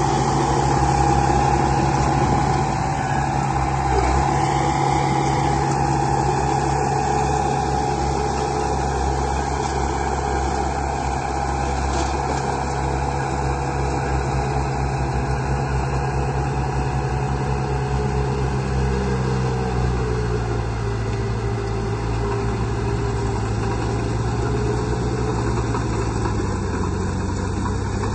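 Engine of construction machinery running steadily, its pitch shifting slightly about twenty seconds in.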